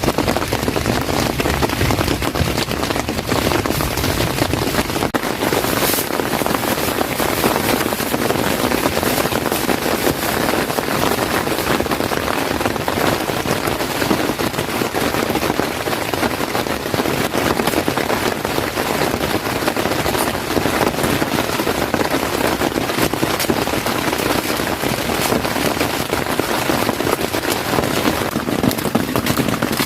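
Heavy rain drumming steadily on a tent, a dense, even patter of many drops.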